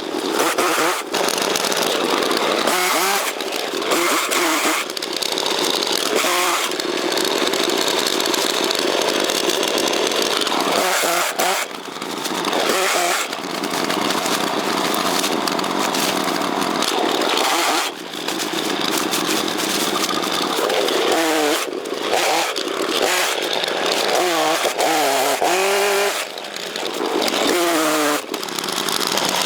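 Chainsaw running and cutting, its engine revving up and down again and again, with short drops in speed about a dozen, eighteen and twenty-six seconds in.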